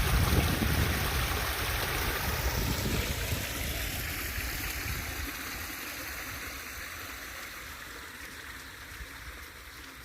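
Floodwater rushing out of an overflowing pond's outlet in a steady, even rush that grows gradually fainter.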